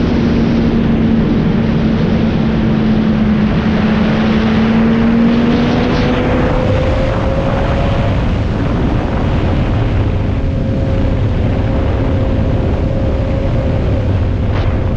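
Motorcycle engine running at road speed under loud wind rush on the microphone, its note shifting to a higher pitch about six seconds in.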